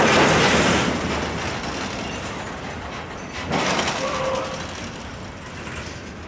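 A train passing close by, its wheels clattering and banging over the rails, with a louder surge at the start and another about three and a half seconds in.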